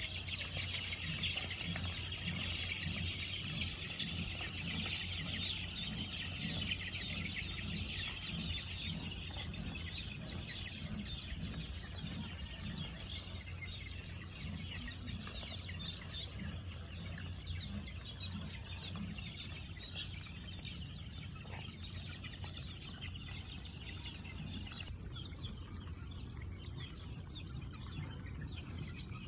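A flock of chickens clucking and calling continuously, many short overlapping calls with no single one standing out; the calling thins out near the end.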